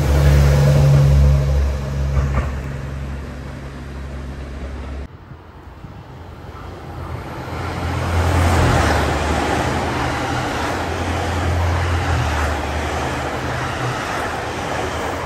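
JR Central HC85 series hybrid express train running past the platform, its diesel generator engine giving a steady low drone over wheel and rail noise. This breaks off abruptly about five seconds in; then a second HC85 draws near and passes close by, its engine drone and running noise building to their loudest shortly after that.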